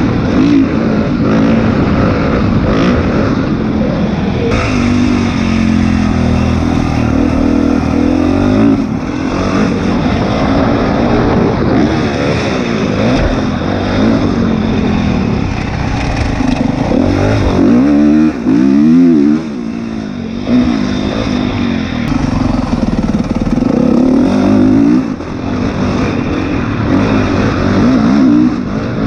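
Dirt bike engine being ridden hard, revving up and down repeatedly through gear changes and throttle blips.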